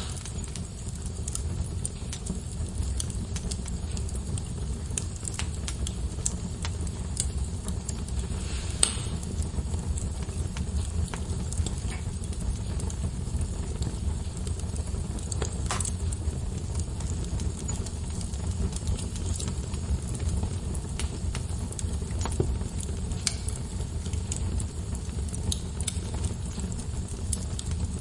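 Wood fire crackling in a fireplace: a steady low rumble of flames with scattered small crackles and a few sharper pops, the strongest about nine and sixteen seconds in.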